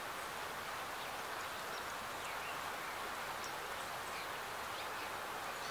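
Steady outdoor background hiss with a few faint, short bird chirps.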